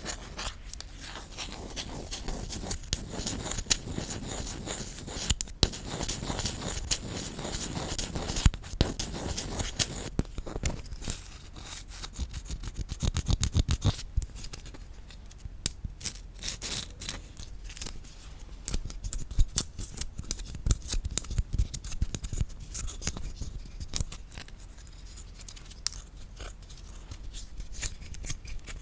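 Rapid, irregular tapping on wooden objects, a dense run of small clicks and knocks, with a change in texture about ten and fourteen seconds in.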